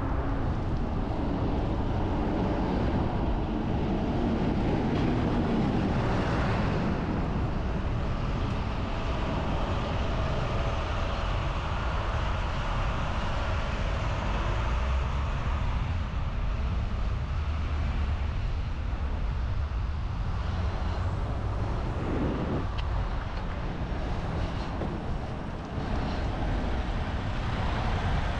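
Steady rumble of city road traffic and wind noise, heard from a moving bicycle.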